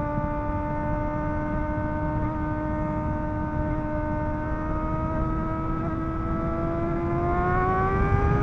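Sportbike engine running at a steady cruising pitch under wind and road rumble, its pitch climbing smoothly about seven seconds in as the bike speeds up.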